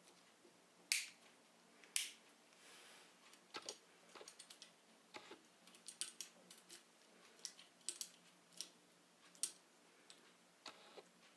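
Irregular clicks and light taps of small parts and hand tools being handled during work on a washing machine motor, with two sharper clicks about one and two seconds in.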